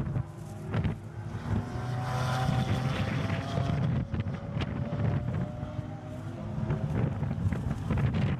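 Sports car engine running hard on a racetrack, its pitch drifting up and down as it is driven, with wind noise on the microphone and several sharp clicks over it.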